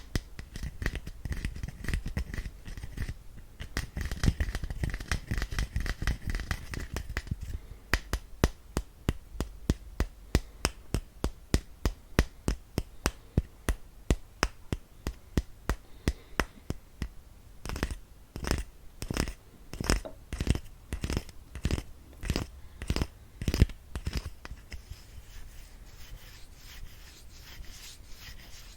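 Close-miked ASMR brush and hand sounds. The first several seconds are a dense run of quick brushing and rubbing strokes. After that come separate sharp strokes or taps, about two to three a second, with quieter rubbing near the end.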